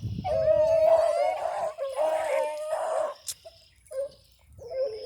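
Rabbit hounds baying while running a rabbit's trail: long drawn-out bay notes for about three seconds, then shorter, separate bays toward the end.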